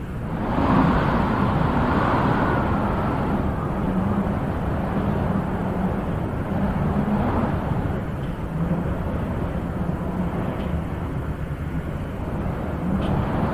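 Wind blowing steadily in gusts, with a swell shortly after the start and gentle rises and falls after it.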